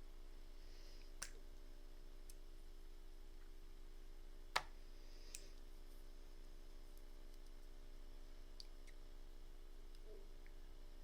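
A few sharp clicks of small objects being handled, the loudest about four and a half seconds in, over a faint steady hum.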